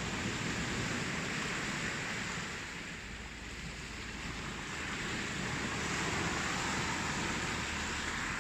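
Ocean waves washing in: a continuous surf noise that eases slightly a few seconds in and then swells again.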